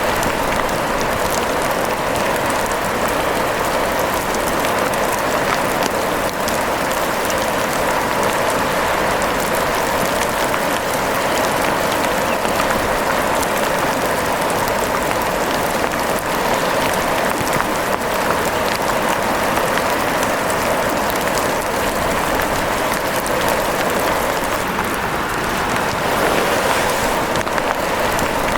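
Steady rain falling: an even, unbroken hiss with many fine drop taps.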